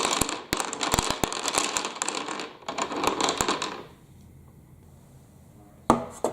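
Small balls clattering down a plastic marble-run track: a dense run of rapid clicks that dies away about four seconds in, then a single sharp click near the end.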